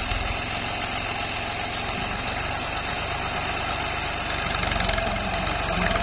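Tractor's diesel engine running steadily with a rapid, even low knocking beat, growing a little louder about four and a half seconds in.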